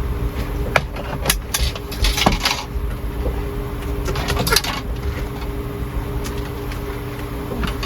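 Gusty storm wind buffeting, heard as an uneven low rumble, with scattered clicks and short rattles, the loudest around two seconds in and again past four seconds. A steady low hum runs under it.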